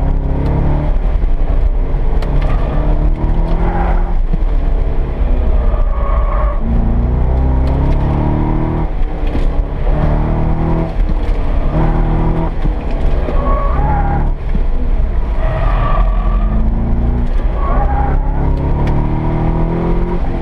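Car engine heard from inside the cabin on an autocross run, revving up and dropping back again and again as the throttle goes on and off through the cones. Brief tyre squeals come several times.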